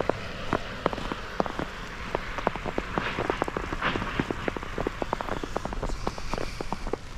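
Falling snow pattering in irregular small ticks, several a second, over a steady hiss.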